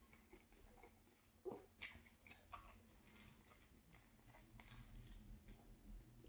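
Faint chewing and biting of a soft chicken-and-cheese sub sandwich, with scattered soft wet mouth clicks, most of them between about 1.5 and 3 seconds in.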